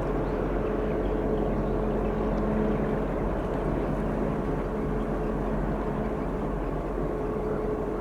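A passing container ship's engine running with a steady low drone and a constant hum.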